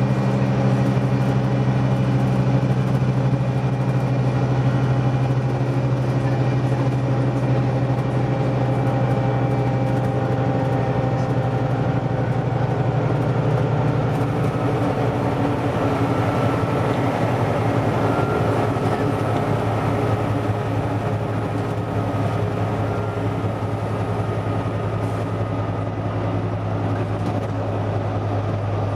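Scania OmniDekka double-decker bus's diesel engine running as the bus drives, a steady low drone whose pitch drifts slowly, with a rougher, noisier spell about halfway through.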